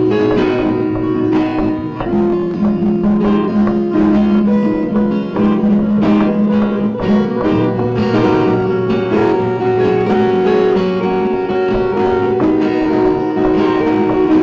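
Music played on guitar: plucked and strummed acoustic guitar notes moving through a melody over a steady low accompaniment.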